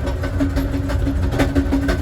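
Amtrak Southwest Chief passenger train running, heard from the rear of its last car: a steady low rumble of wheels on rail with scattered clicks and a hum that pulses about four times a second.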